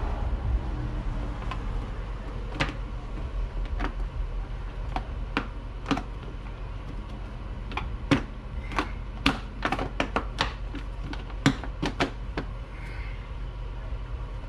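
Irregular sharp clicks and knocks of metal exhaust parts and fittings being handled and fitted by hand on a motorcycle, coming in a quick cluster in the second half, over a steady low rumble.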